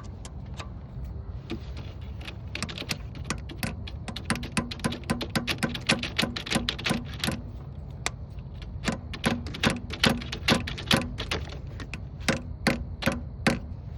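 Irregular runs of sharp metallic clicks and taps from hand tools working on a truck's engine, over a steady low background rumble; the clicks come in two busy stretches, about four to seven seconds in and again from about nine seconds.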